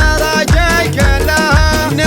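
A Gulf Arabic shayla: a voice chanting a poem in long, ornamented sung phrases over a steady low beat that comes about twice a second.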